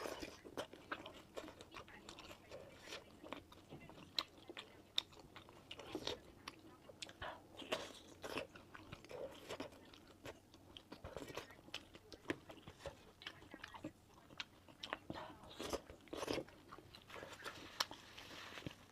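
A person eating, biting and chewing food with many irregular sharp mouth clicks.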